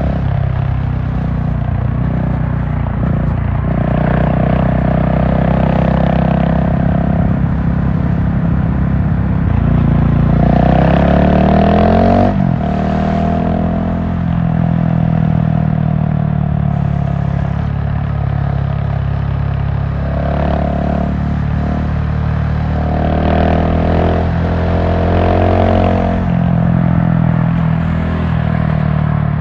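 GasGas SM700 supermoto's single-cylinder engine under way, the revs rising and falling as the rider opens and closes the throttle. The pitch climbs steadily, then drops sharply about twelve seconds in.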